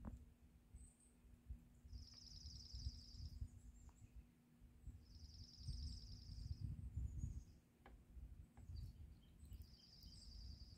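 Faint high-pitched bird trill, a rapid even run of notes about a second and a half long, sung three times roughly three seconds apart.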